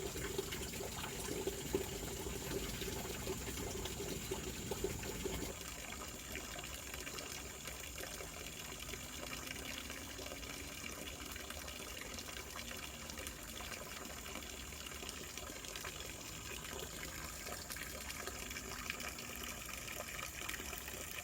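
Steady rush of flowing river water. About five seconds in the sound changes abruptly and its lower rushing drops away, leaving a softer, even flow with a faint steady high tone above it.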